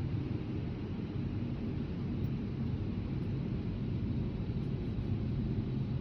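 Steady low rumble and hiss of a car wash running, with no separate knocks or strokes.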